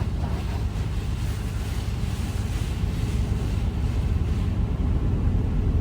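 Automatic car wash spraying clear coat protectant onto a truck, heard from inside the cab as an even hiss of liquid on the body and windows. A steady low rumble sits under it.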